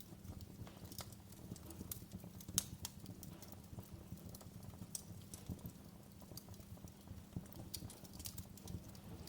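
Wood fire in a fireplace crackling: a low steady rumble of the flames with irregular sharp pops and snaps, one louder pop a little over two seconds in.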